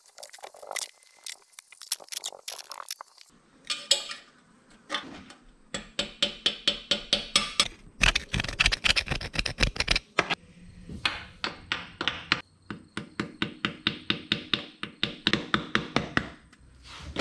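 Hand tools working at a seized motorcycle oil drain plug: runs of sharp, even metallic clicks or taps, about four a second, with short pauses between runs and a few scattered knocks at the start.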